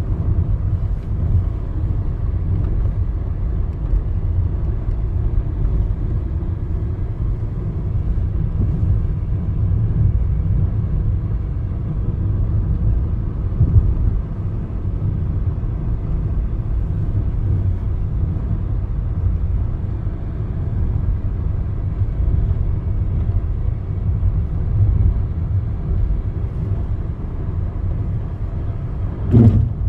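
Steady low rumble of outdoor noise, with a brief knock near the end.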